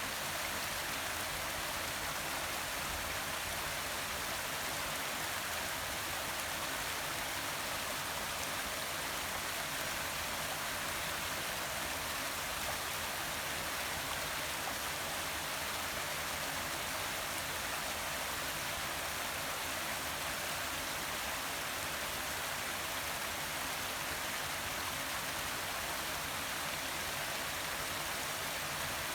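Forest waterfall and running water, a steady even rush of falling water.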